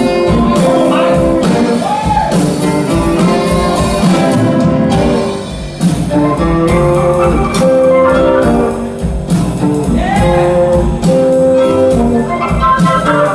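Blues band playing an instrumental passage with no singing: held notes over a steady band accompaniment, with a bent note about two seconds in and again near ten seconds.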